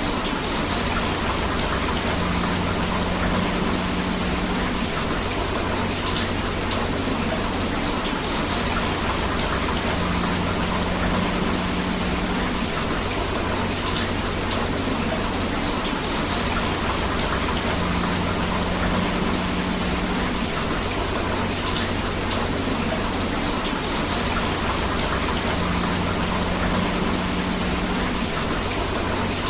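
Steady rain together with flowing river water, an even unbroken wash of falling drops and running water. A faint low hum comes and goes about every eight seconds.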